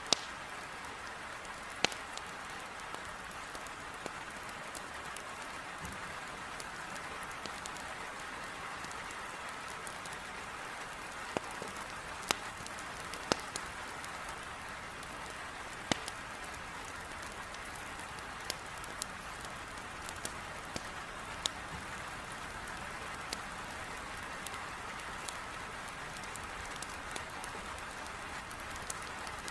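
Heavy rain beating steadily on a window, with a wood fire crackling in a fireplace: sharp, isolated pops every second or two.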